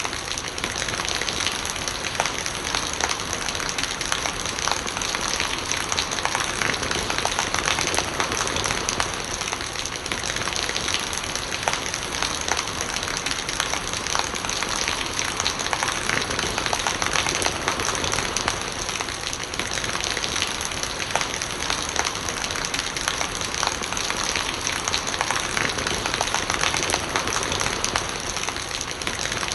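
Steady heavy rain, a dense patter of drops hitting surfaces, with rainwater running and gurgling.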